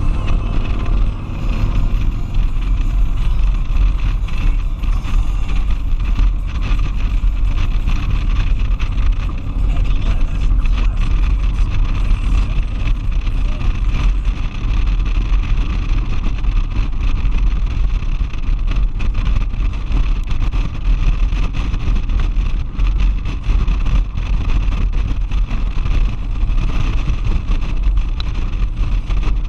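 Motorcycle riding at road speed, its engine a steady low drone under heavy wind noise buffeting a helmet-mounted GoPro microphone.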